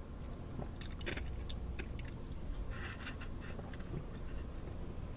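A person chewing boba's tapioca pearls close to the microphone, with soft scattered clicks and a short noisy burst about three seconds in.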